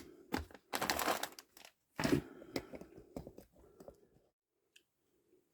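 Crinkling and rustling of a parts kit's packaging as a new clutch spring is taken out for measuring, in two loud bursts in the first two seconds followed by a few small clicks and scrapes.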